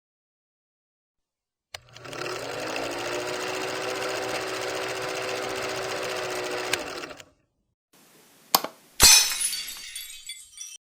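A small motor runs steadily for about five seconds, its hum rising in pitch as it starts and dropping as it stops. Then two sharp clattering knocks follow, the second louder and left ringing.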